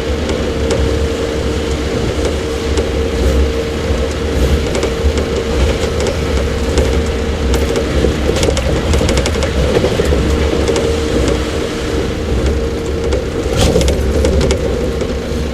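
Running sound heard inside a JR 115-series electric motor car (KuMoHa 115) travelling at steady speed: a constant low rumble of wheels on rail with a steady hum from the traction motors and gears. A brief patch of sharp clicks and rattles comes about 13.5 seconds in.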